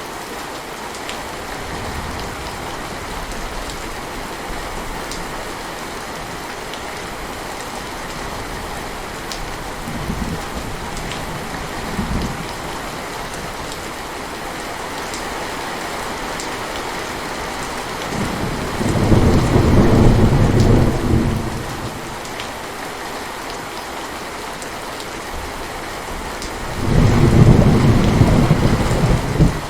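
Heavy steady rain with thunder: two loud low rumbles of a few seconds each, one past the middle and one near the end, and a couple of fainter short rumbles earlier.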